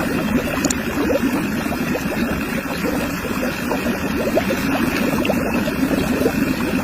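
Homemade water pump running: a steady rush of water gushing and splashing, with a motor running underneath.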